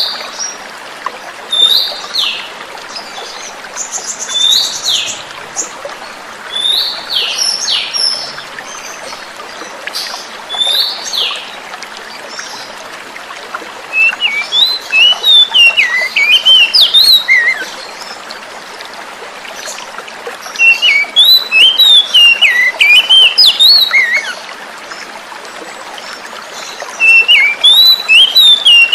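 Oriental magpie-robin calling over a steady trickle of flowing water. First come separate down-slurred whistles and one harsh rasping note. Then, from about halfway in, come three bursts of fast, varied song.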